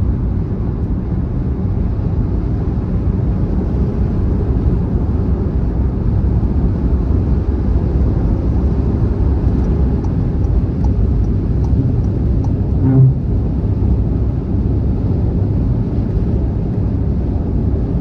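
Steady low rumble of a car driving at motorway speed, road and tyre noise with the engine underneath. There is a brief thump about thirteen seconds in.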